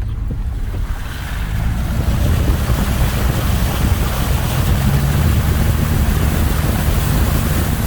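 Truck driving on a rough dirt trail: a steady low rumble, with a rushing hiss that swells about a second in and holds.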